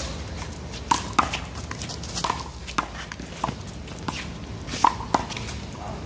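A one-wall handball rally: sharp, irregular smacks of the small rubber ball off the players' hands and the wall, about seven in all, mixed with footsteps on the court.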